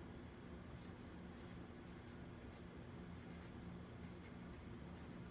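Faint scratching of a pen or marker writing, over a low steady room hum.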